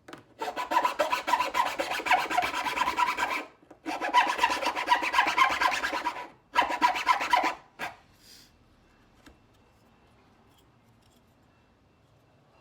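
Small fine-toothed square file worked quickly back and forth across wood, smoothing a rough cut-out. There are three spells of rapid strokes, the last one shorter, and the filing stops about eight seconds in.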